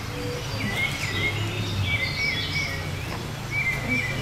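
Songbirds chirping, a quick series of short high notes repeating throughout, over a steady low hum of background noise.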